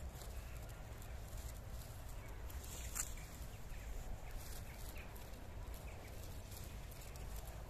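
Footsteps of a person walking along a forest path, a run of irregular light steps, with one sharper click about three seconds in.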